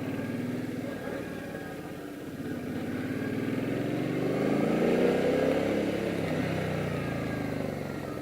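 Motorcycle engine under way: its revs climb about two seconds in, peak around the middle, then slowly fall away.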